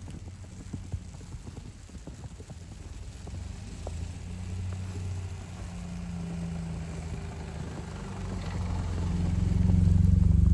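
Footsteps crunching in snow as short irregular clicks, joined a few seconds in by a motor vehicle's engine rumble that grows steadily louder and is loudest near the end as the vehicle comes close.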